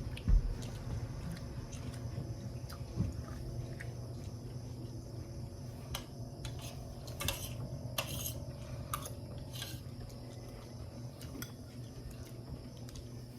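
Cutlery clinking against plates and bowls now and then, in scattered light clicks, with a low thump just after the start.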